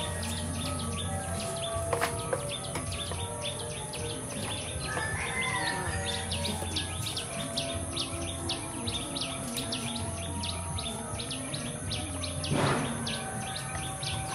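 Small birds chirping repeatedly in quick succession over a steady high background hum, with a short louder noise near the end.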